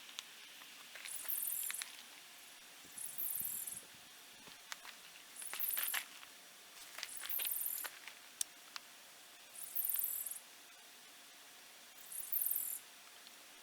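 An insect calling in short, very high-pitched bursts about every two seconds, with a few light clicks in between.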